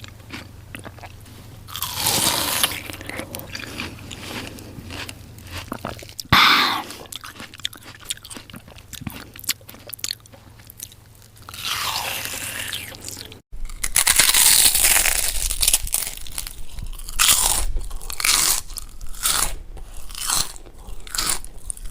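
Crunching and chewing sounds: a run of short crisp crunches, with a sudden break about thirteen seconds in, then a louder, denser run of crunches.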